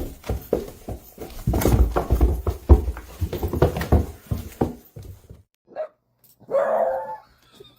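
Dog barking over and over for about five seconds, then after a short break one longer, higher-pitched call.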